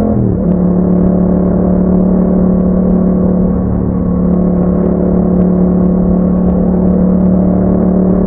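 2021 Yamaha MT-07's parallel-twin engine running through an Akrapovic exhaust while riding. The note drops slightly in pitch at the start, then holds a steady drone at constant revs.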